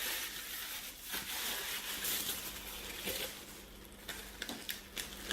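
Packaging wrapping being handled and pulled open, with crinkling and rustling and small crackles throughout.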